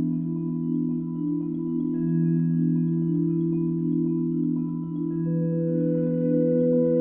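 Vibraphone playing a slow, static arpeggiated texture of ringing, overlapping notes that shifts about every three seconds, with a viola in a slow minimalist duo. A new long held note comes in about five seconds in.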